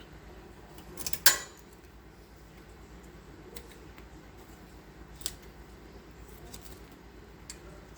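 Clinks and taps of kitchen utensils against a plate while a banana-leaf-wrapped fish parcel is opened: a quick cluster of sharp clicks about a second in, the loudest, then single clicks every second or two.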